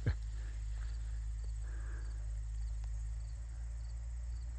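Outdoor background: a steady low rumble with faint insect chirping, and one short knock at the very start.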